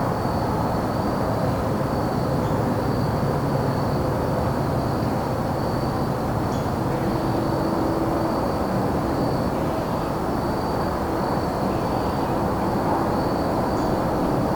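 Crickets chirping in a continuous high pulsing trill over a steady low rumble of distant traffic, with a few faint short bird chirps.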